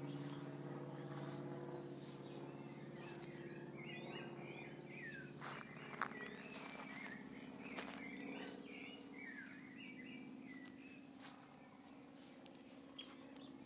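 Several small birds chirping and calling in quick short notes, busiest in the middle, over a steady low hum. There is one sharp tick about six seconds in.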